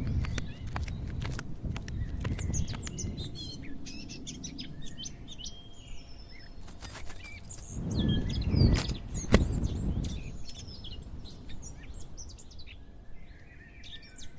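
Outdoor ambience of many small birds chirping and twittering over a low background rumble. About eight to nine seconds in, the rumble swells louder and two sharp clicks sound.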